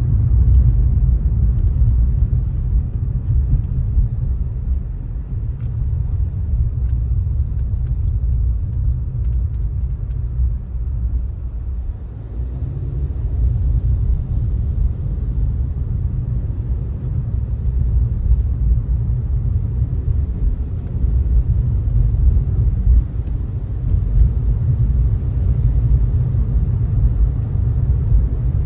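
Car driving on a wet road: a steady low road rumble with a fainter tyre hiss, easing briefly about halfway through.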